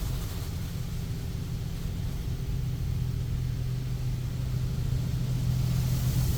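Automatic car wash heard from inside a parked car's cabin: a steady low rumble with a hum that grows a little stronger partway through.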